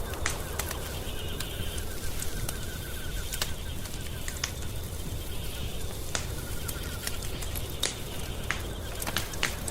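Wood fire crackling, with scattered sharp pops over a steady low rumble of burning. A faint rapid chirping trill sounds twice in the background.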